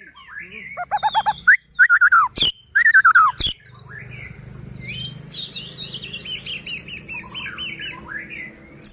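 White-rumped shama (murai batu) singing: loud whistled, sweeping phrases with two sharp clicks in the first half, then a fast run of short repeated notes over a low steady hum.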